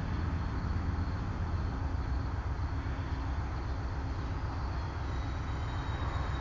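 A train's diesel locomotive engine running steadily, a low, even drone with no change in pitch.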